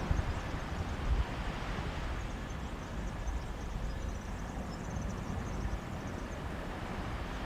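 Sea waves washing on a beach in a steady hiss, with wind gusting against the microphone in low rumbling buffets, strongest at the start.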